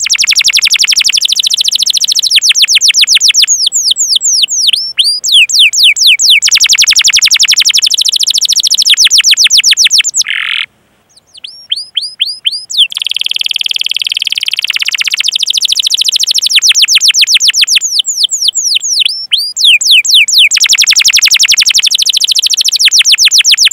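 Domestic canary singing a long, loud song: runs of rapid falling 'cuit cuit' chirps and fast rolling trills. It breaks off briefly about eleven seconds in, then starts again.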